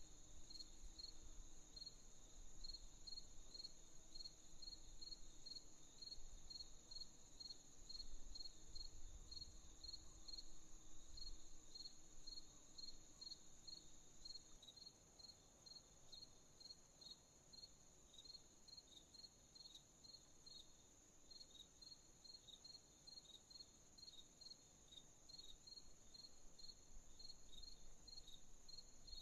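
Crickets chirping faintly at night: an even run of short chirps, two or three a second, over a continuous high insect trill.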